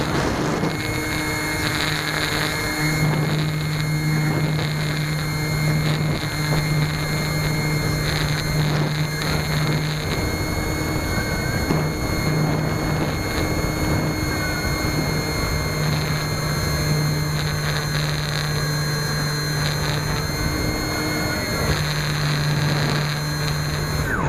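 Electric RC glider's motor and folding propeller running at steady full power, a high, even whine over rushing air noise. The whine cuts off near the end as the motor is shut down.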